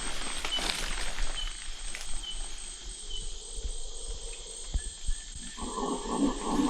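Amazon rainforest insects droning steadily with high, even tones. About five and a half seconds in, a lower, rhythmically pulsing animal call starts up and grows louder.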